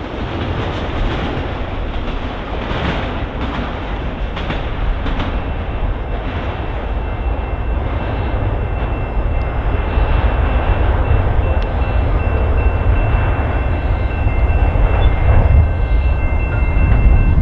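Union Pacific auto rack freight train rolling along the track, a steady rumble of its cars' wheels on the rails as the last cars pass.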